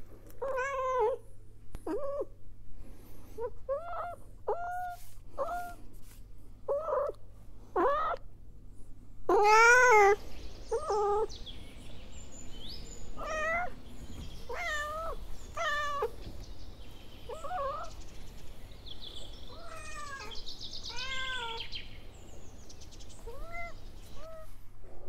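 Cat meowing over and over: a long string of short meows, with a louder, longer meow about ten seconds in.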